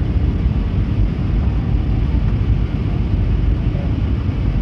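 Steady low rumble of airliner cabin noise inside an Airbus A320neo, engine and airflow sound with no distinct events.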